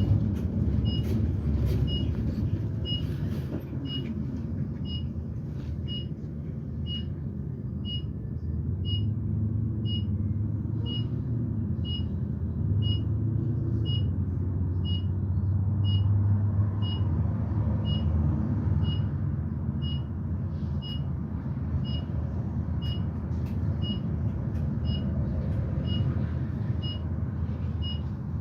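Interior ride sound of a propane Blue Bird Vision school bus: its GM Vortec V8 engine and road rumble run steadily, the engine note rising and falling with speed. Over it a turn-signal indicator ticks with a short beep about one and a half times a second.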